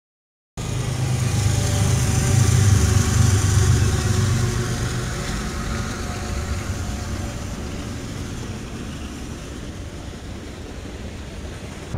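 Freight train's diesel locomotives passing close by: a deep engine rumble that cuts in suddenly about half a second in, is loudest for the first few seconds, then eases as the locomotives go by, leaving the steadier noise of the cars rolling past.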